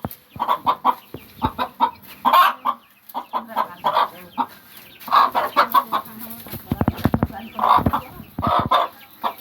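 A mother hen clucking in repeated short bursts, with a quick run of rapid pulses about seven seconds in.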